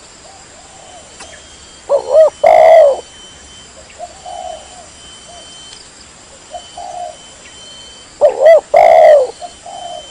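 Spotted dove (tekukur) cooing. It gives two loud calls about six seconds apart, each two quick notes followed by a longer coo, with softer coos in between.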